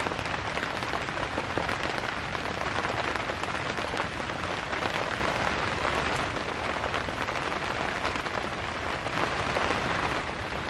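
Heavy rain drumming on the tent fabric, heard from inside the tent as a dense, steady crackling patter.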